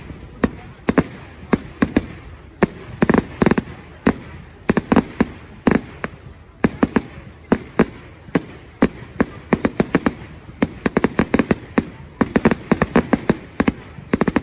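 Fireworks going off in a display: sharp bangs and rapid crackling bursts in irregular clusters, growing denser and busier in the second half.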